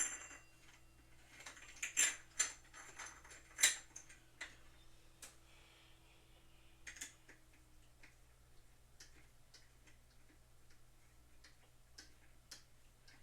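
Scattered light clicks and taps at an irregular pace, most frequent in the first four seconds and sparse after, over a faint steady hum that fades out about eight seconds in.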